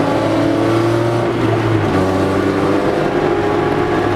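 Honda Civic ED7's four-cylinder engine running under load on track, heard from inside the cabin as a steady drone with small changes in pitch.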